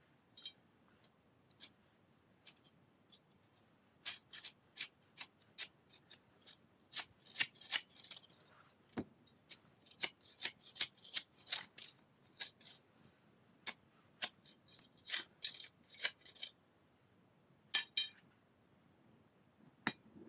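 Wood fire crackling: irregular sharp pops and snaps, busiest through the middle and thinning near the end.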